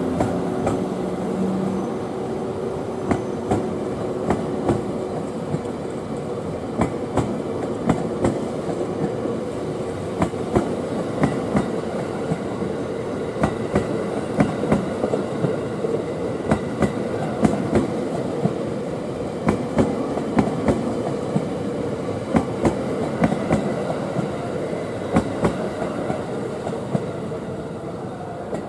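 Cars of an E257 series electric train, towed by a locomotive, rolling slowly past: a steady wheel-on-rail rumble with clickety-clack as the wheels cross rail joints, the clacks coming in pairs and clusters. A low hum dies out in the first second or two.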